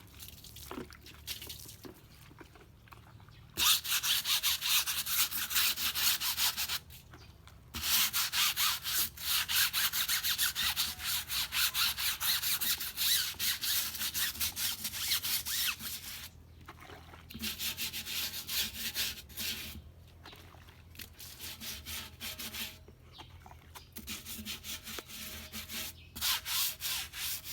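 Old car tyre being scrubbed by hand in soapy water: fast, even back-and-forth scrubbing strokes in several bouts, with short pauses between them.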